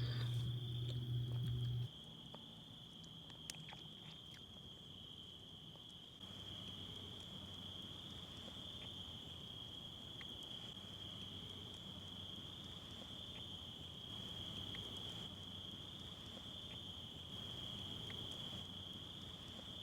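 Steady, high-pitched insect chorus, a continuous unbroken trill. A louder low hum fills the first two seconds and cuts off suddenly, and a few faint ticks are scattered through.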